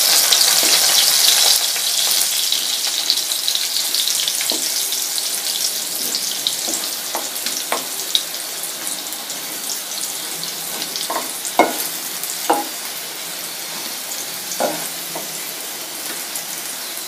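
Taro slices sizzling in hot mustard oil in a frying pan, the sizzle strongest in the first second or two and then easing a little. A wooden spatula turns the pieces over, knocking sharply against the pan several times.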